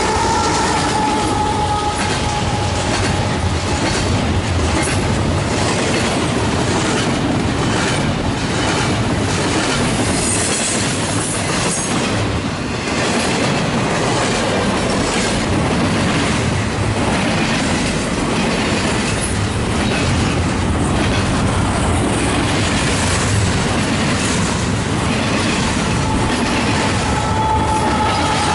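Canadian Pacific double-stack intermodal train passing at speed: a steady rumble of well cars with wheels clicking over rail joints. The lead GE AC44CW locomotive's horn fades out about two seconds in, and a train horn sounds again near the end.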